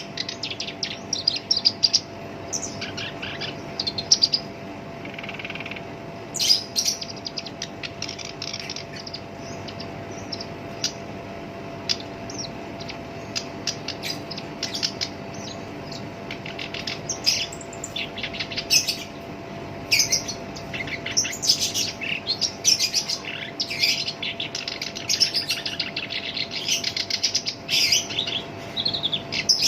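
Black-browed reed warbler singing a fast, harsh chattering song of rapid scratchy notes. It pauses briefly about four seconds in, then runs on almost unbroken.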